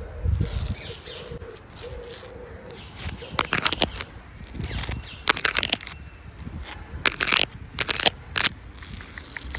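Footsteps crunching on a dry forest floor, in several irregular bursts of crackling.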